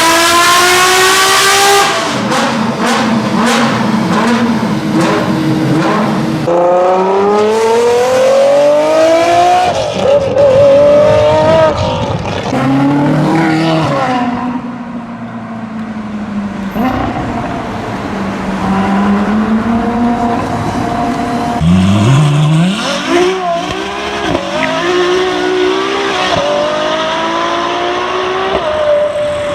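Ferrari engines on straight-pipe exhausts, heard in several short takes one after another, revving up and dropping back and accelerating hard with long rising sweeps in pitch.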